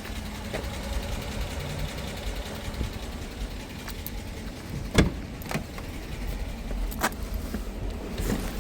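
Dodge Durango's 5.7 Hemi V8 running with a steady low rumble through its stock exhaust. A few sharp knocks land over it, the loudest about halfway through.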